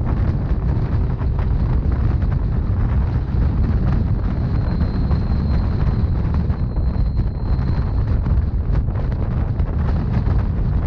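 Rhaetian Railway narrow-gauge train running, with a steady deep rumble and wind on the microphone. A faint high-pitched squeal comes in for a few seconds in the middle.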